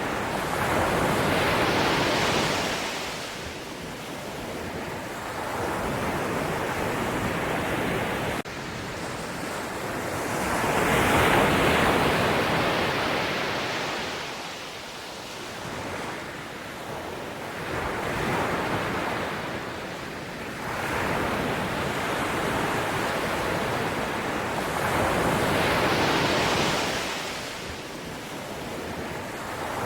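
Sea waves surging and washing in: a rush of noise that swells and fades about every seven to eight seconds.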